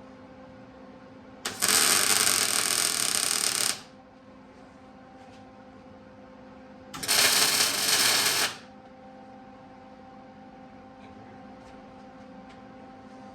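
Two loud bursts of metalworking noise in a workshop, the first about two seconds long starting a second and a half in, the second shorter, about seven seconds in. A steady hum runs underneath.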